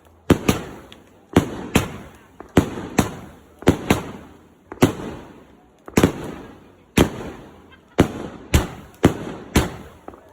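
Fireworks going off in a fast, uneven run of loud bangs, one to three a second, each one fading out quickly.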